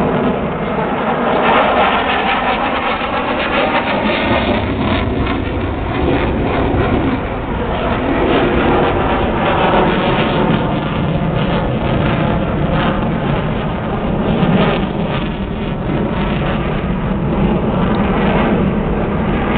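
Fighter jet engines of F-16s and MiG-29s during a display dogfight: a loud, continuous rushing noise that swells and eases slightly as the jets manoeuvre.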